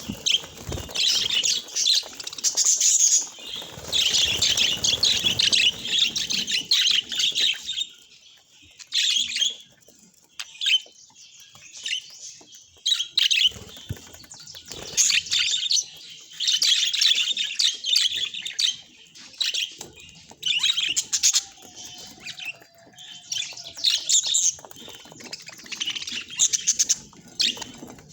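Pet budgerigars chirping and chattering in fast bouts, broken by short lulls.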